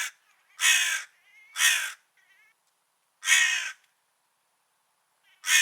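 A crow cawing: the tail of one caw right at the start, then four loud caws spaced about one to two seconds apart, with a couple of fainter, softer calls after the second and third.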